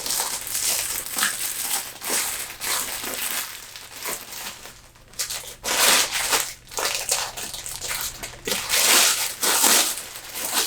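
Packaging crinkling and rustling in irregular bursts as a wrapped item is pulled out of a gift package and unwrapped.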